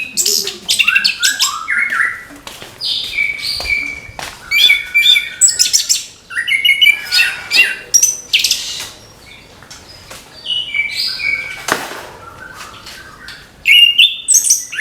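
Orange-headed thrush singing a fast, varied song of whistled, gliding and chattering phrases, with a short lull about ten seconds in and a sharp click soon after.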